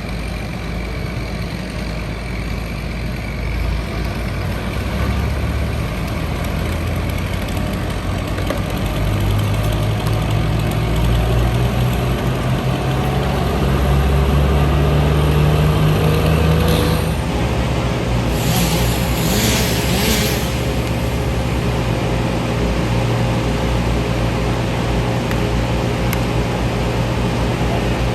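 Heavy diesel engine of tree-removal equipment running, revving up for several seconds in the middle and then dropping back to a steady run, with a few seconds of hissing shortly after it drops.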